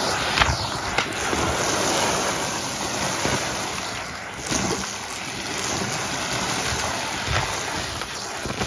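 Numatic Hetty vacuum cleaner running steadily and sucking up a scattered debris mix, with a few sharp clicks and rattles as bits are pulled in.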